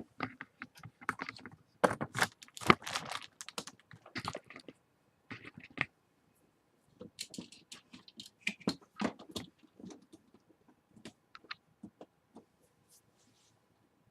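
Typing and clicking on a computer keyboard and mouse: irregular bursts of key clicks, thinning out and stopping shortly before the end.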